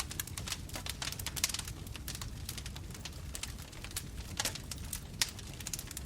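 Bonfire crackling: a dense run of irregular snaps and pops from burning wood, a few louder pops among them, over a steady low rumble of the flames.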